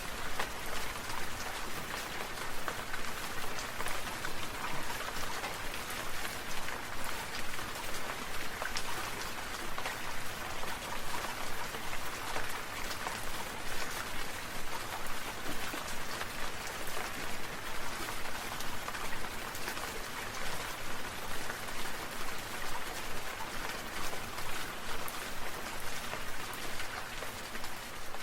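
Sprinkler water falling like rain, a steady dense patter of drops with a gentle regular pulse in loudness.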